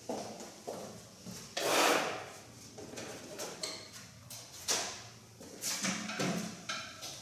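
Irregular knocks and clicks of objects being handled, with a short louder scraping rush about two seconds in.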